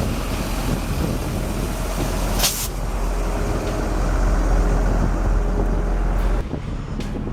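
Heavy truck running with a steady low rumble, with a brief sharp hiss of air about two and a half seconds in.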